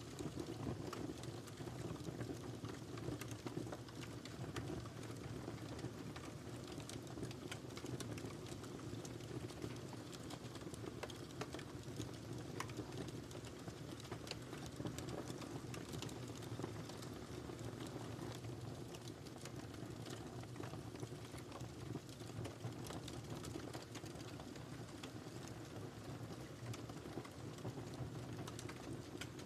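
Wood fire burning steadily in a fireplace: a low, even rush of flames with frequent small crackles and pops scattered throughout.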